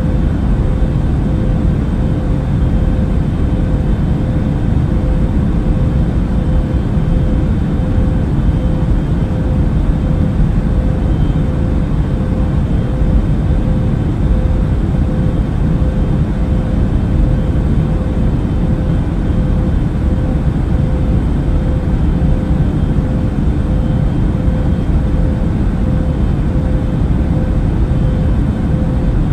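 Steady airplane cabin noise in flight: an even, low rumble with a thin steady hum above it, unchanging throughout.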